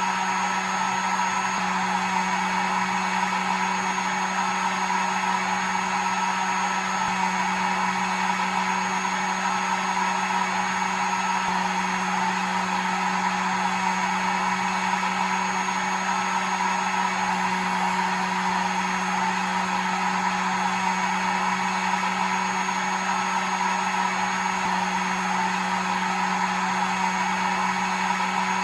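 Hair dryer running steadily: a constant rushing blow with a low motor hum and a thin high whine, used as continuous white noise for a baby's sleep.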